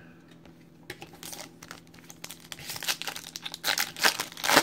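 Foil trading-card pack wrapper crinkling as it is handled and torn open, in irregular crackles that grow louder toward the end.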